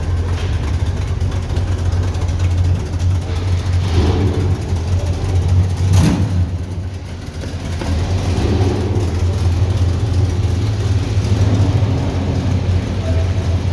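A vehicle engine idling steadily, with a short sharp click about six seconds in.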